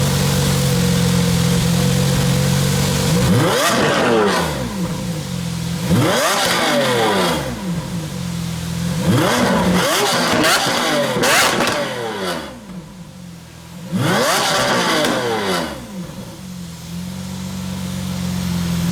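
A supercar engine idles, then revs hard about five times in quick succession, its pitch climbing and falling with each rev, before settling back to an idle near the end.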